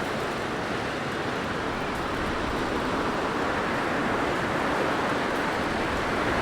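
Blizzard wind blowing steadily, a dense rushing noise that grows slightly louder through the second half.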